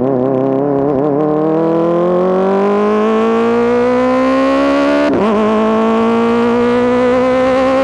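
Kawasaki ZX-4RR's inline four-cylinder engine through an SC-Project S1 exhaust, pulling steadily up through the revs under acceleration. A quick upshift about five seconds in is followed by the pitch climbing again more slowly.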